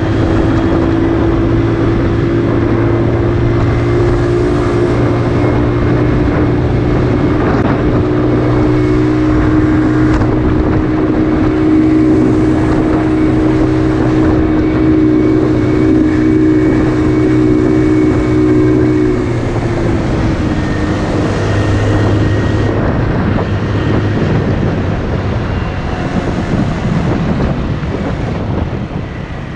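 Motorcycle engine running at a steady speed with wind rushing past, its pitch dropping a little about two-thirds of the way through as it slows, then running less evenly.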